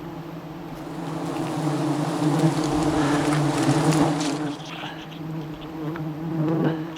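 A swarm of wild honeybees buzzing close by, a steady drone that swells louder through the middle and then eases off.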